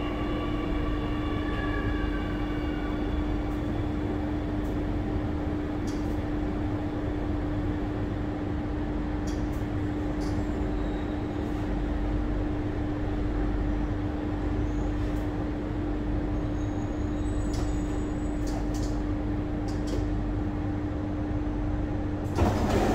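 Steady interior noise of an SMRT C830C (Alstom Metropolis) train carriage, with a constant low hum over an even rumble. A few higher tones fade out in the first couple of seconds, and the sound rises sharply just before the end.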